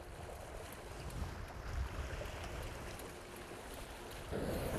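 Steady rush of water and wind on a small sailing catamaran under way, growing louder about four seconds in.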